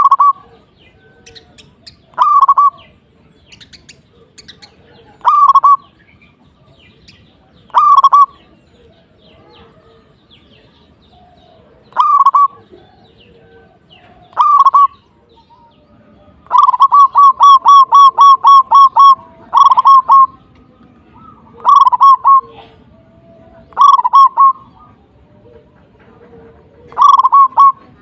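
Zebra dove (perkutut) cooing: short phrases of quick, bubbly notes repeated every two to three seconds, with a longer rapid run of about ten notes past the middle.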